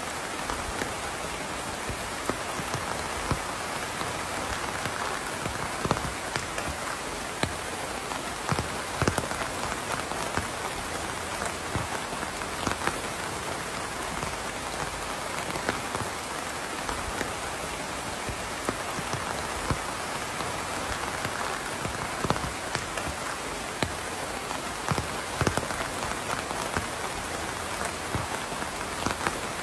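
Steady rain falling on a hard surface, with many close individual drops ticking and tapping over the even patter.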